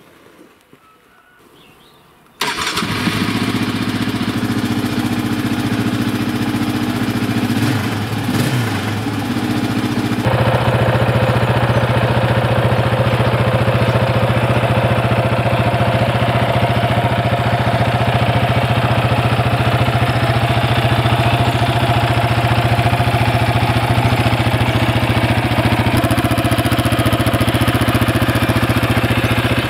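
Yamaha Raptor 700R quad bike's single-cylinder four-stroke engine running, coming in suddenly about two seconds in and settling into a louder, steady note about ten seconds in.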